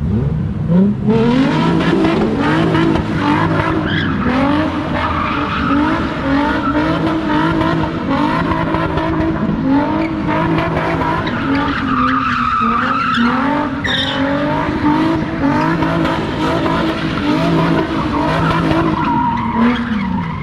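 A car doing a burnout or donuts: the engine revs up at the start, then swings up and down over and over at high revs while the tires squeal, and the revs drop near the end.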